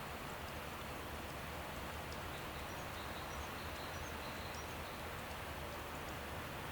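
Steady outdoor nature ambience: an even rustling hiss with a few faint, brief high chirps of small birds scattered through it, several in the middle of the stretch.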